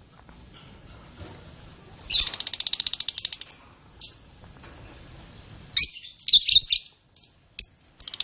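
Canary singing: a fast, high trill of rapid repeated notes, then short chirps and another quick run of notes about six seconds in, with a second trill starting near the end.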